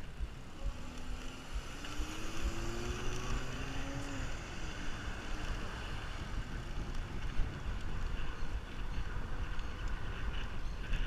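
Wind buffeting the microphone over steady rolling road noise while riding a bicycle, with a faint rising hum, like a motor passing, about one to four seconds in.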